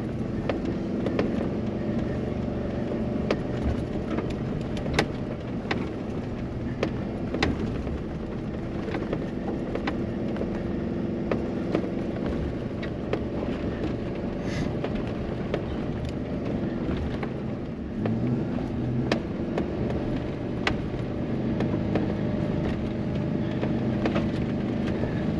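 Jeep engine pulling steadily under load as it climbs a steep grade through deep snow with its lockers engaged, with scattered sharp clicks and knocks.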